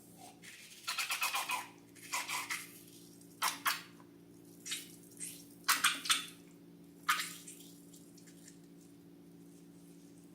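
Slime being squished and pressed by hand: a series of short, wet, crackling squelches, about eight in all, over a steady low hum, then only the hum from about seven seconds in.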